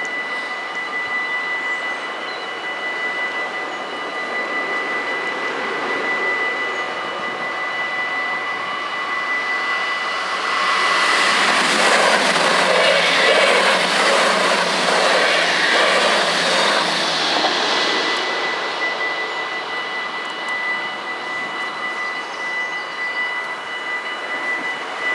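Level-crossing bells ringing steadily while an NS SGMm Sprinter electric train passes over the crossing. The train's rumble and rail noise swell about ten seconds in, are loudest for around seven seconds, then fade.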